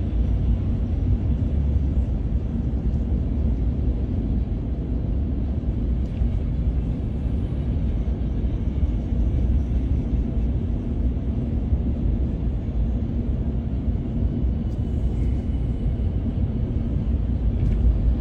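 Steady low rumble of engine and road noise inside a truck's cab while driving.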